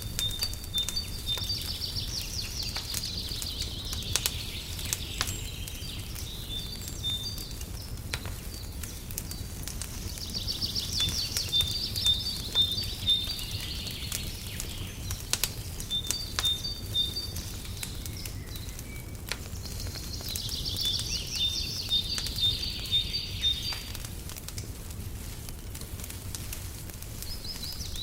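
Wood fire crackling with scattered pops over a low steady rumble. A songbird sings a phrase of high repeated notes ending in a trill, which comes back about every ten seconds.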